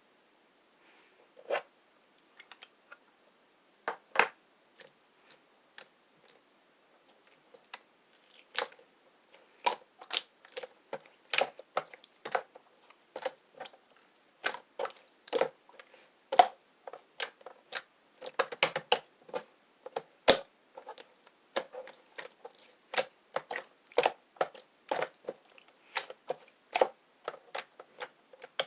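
Homemade slime being squeezed and poked by hand, giving sharp clicking pops. They come sparsely at first and then about one or two a second.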